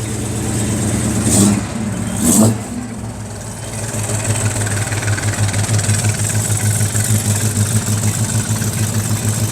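Ford 390 FE big-block V8 in a 1967 Fairlane Ranchero, running just after being started. The throttle is blipped twice, about a second apart, and then it settles into a steady, pulsing idle.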